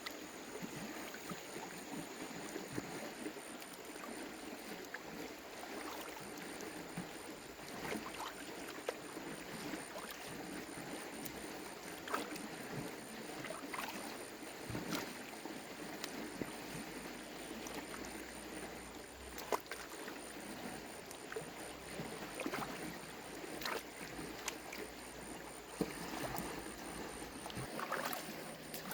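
Water sloshing and splashing, with scattered light knocks and clicks, over a faint, evenly pulsing high-pitched tone.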